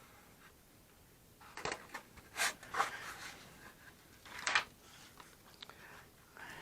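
Model-building handling noises at the bench: a few short rasping scrapes, with four louder ones in the middle of the stretch and faint scratching between them.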